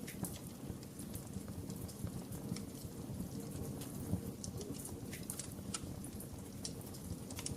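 Wood fire crackling in a fireplace: a steady low rumble of flame with scattered sharp pops and snaps, several a second.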